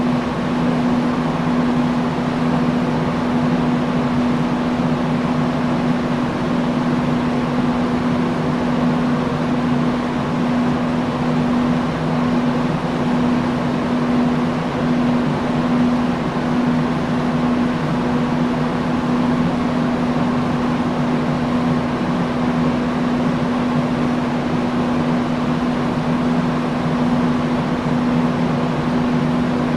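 Industrial fan running steadily: an even rush of moving air over a constant low hum.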